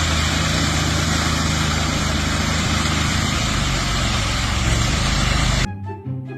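An engine running steadily under a loud hiss, with an even low hum; it cuts off suddenly near the end and gives way to plucked-string music.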